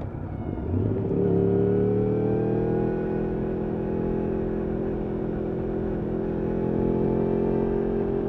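Yamaha R1 RN22's crossplane inline-four running through an Akrapovič exhaust. The engine note dips briefly at the start, comes back about a second in, and climbs slowly in pitch under acceleration before holding nearly steady.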